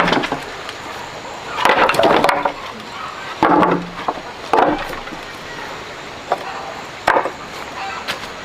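Irregular wooden knocks and short scrapes, as of boards being handled and set down, about half a dozen over several seconds.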